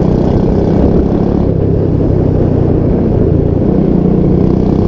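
Royal Enfield Bullet 350 Classic's single-cylinder engine running through a 'Punjabi dhol' aftermarket exhaust, a loud, steady low exhaust note.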